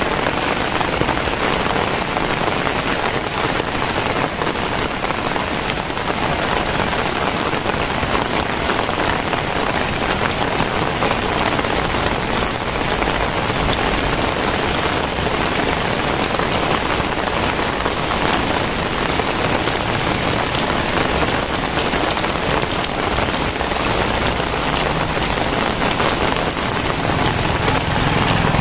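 Very heavy rain falling steadily, a dense, even hiss of downpour. A low hum, like a vehicle engine, comes in faintly near the end.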